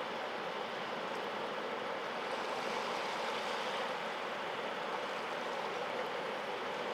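Sea waves breaking and washing in, a steady rushing surf that swells a little midway.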